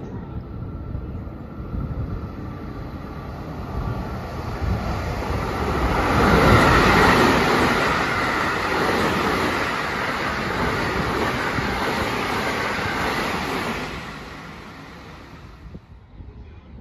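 Electric rapid train running through a station at high speed without stopping. The rush of wheels on rail builds over the first few seconds, stays loud for several seconds as the cars go by, then fades quickly near the end.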